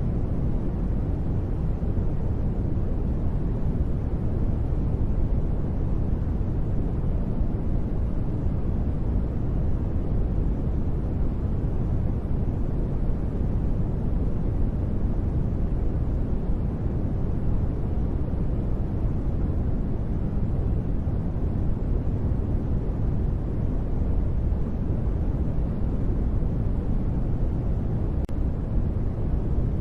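Continuous sleep noise, steady and even, deep and rumbling with little high hiss, with no sudden sounds.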